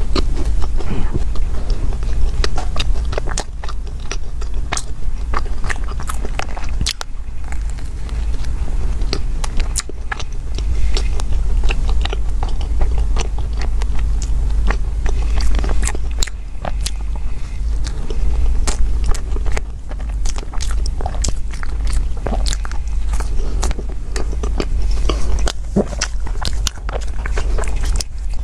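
Close-miked biting and chewing of a cream-filled bread roll with a crunchy crumb topping: soft wet mouth sounds broken by many sharp, crackly clicks, over a steady low hum.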